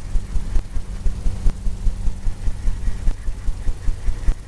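Paintbrush scrubbing and dabbing oil paint onto a stretched canvas, a steady run of low thumps several times a second, with a faint steady hum for the first three seconds.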